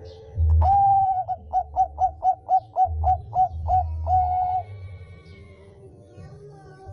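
Zebra dove (Bangkok-strain perkutut) cooing: a held note, then a run of about a dozen short rising coos at about four a second, ending on a held note.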